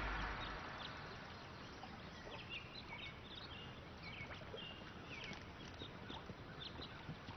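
Songbirds chirping over a quiet outdoor background, in short high chirps that repeat in small groups from about two seconds in. The tail of the soundtrack music dies away in the first second or so.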